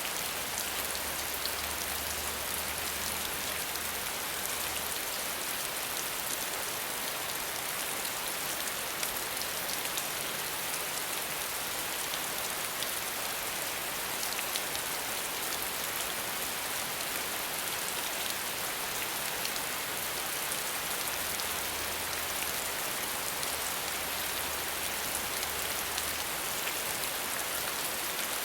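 Steady rain without thunder: an even hiss of falling rain with fine, scattered drop ticks. A faint low hum comes and goes underneath.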